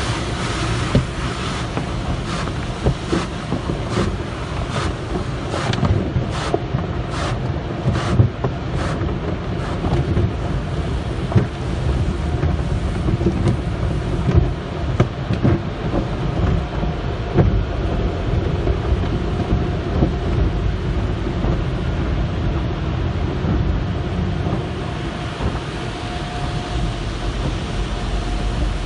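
Automatic soft-cloth car wash tunnel running: a steady low rumble of machinery and water. Repeated slapping knocks in roughly the first third, then a faint steady hum comes in near the end.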